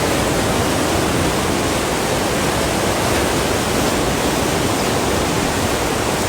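A river swollen by rain, rushing loudly and steadily.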